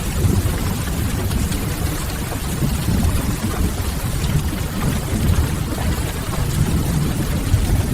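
Rain-and-fireplace ambience: steady rain with a deep, even rumble under a lighter hiss, and faint crackling of burning firewood.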